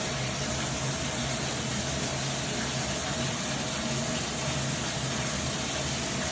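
Shower running: water spraying in a steady, even hiss.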